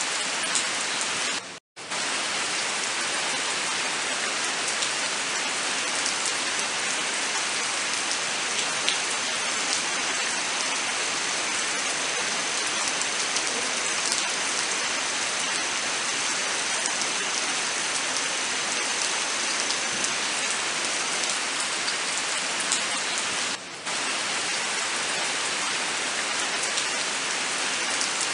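Steady, heavy rain falling on surfaces, an even dense hiss of drops. The sound cuts out abruptly for an instant about a second and a half in, and dips briefly again near the end.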